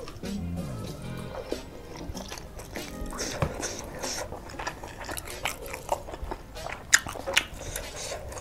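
Chewing a mouthful of ketupat rice cake, with wet mouth smacks and sharp clicks, one louder click about seven seconds in. Soft background music plays underneath.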